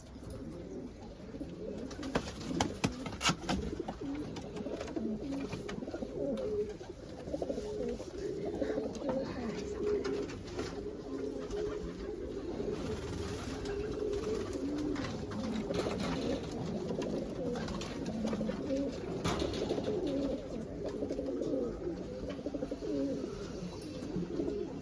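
Several domestic pigeons cooing over one another, a low warbling chorus, with occasional light clicks and knocks.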